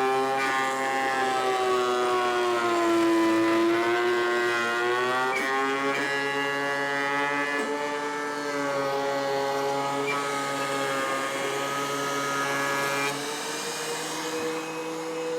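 Thickness planer running with a board feeding through it. Its motor whine sags in pitch under the load and then climbs back, and the sound changes and drops a little about thirteen seconds in.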